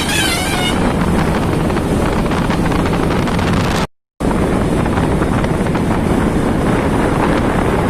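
Motorcycle on the move, with wind rushing over the microphone and covering the engine. The sound cuts out completely for a moment about four seconds in, then resumes.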